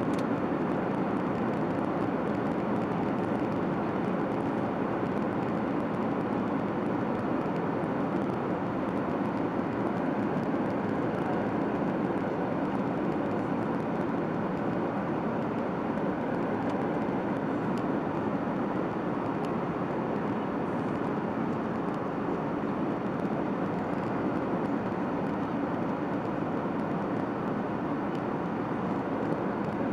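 Steady engine and airflow noise of a Boeing 737-800 airliner with CFM56-7B turbofans in flight, heard inside the cabin as an even, unbroken roar.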